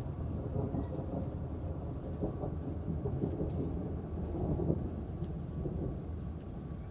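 Low rolling thunder rumbling over steady rain, easing slightly near the end.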